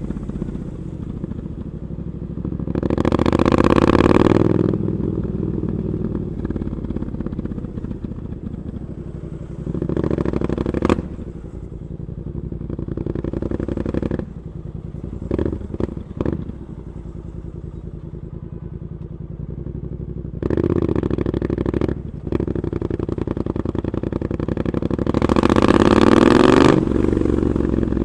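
Triumph Scrambler 900 parallel-twin engine running through an Arrow aftermarket exhaust. It holds a steady low running note, rises and falls in longer revs near the start and near the end and once about two-thirds through, and gives a few quick throttle blips around the middle.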